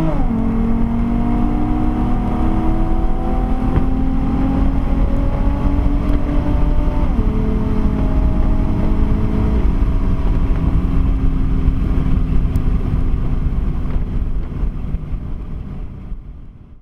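Modified Nissan sedan's engine under hard acceleration, heard from inside the car over heavy road and wind rumble. Its pitch climbs slowly and drops sharply at upshifts just after the start and about seven seconds in, then levels off and dies away at the end.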